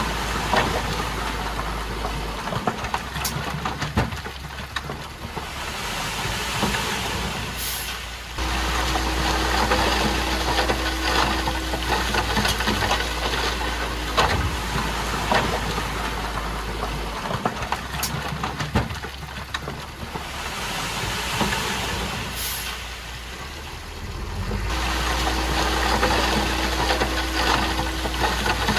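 Komatsu D51PX crawler bulldozer's diesel engine working, swelling under load and easing off in a repeating cycle about every sixteen seconds, with a few brief sharp high sounds.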